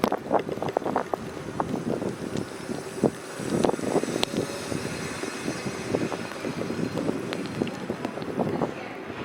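Street ambience in a snowstorm: wind on the microphone and city traffic noise, broken by frequent irregular short scuffs.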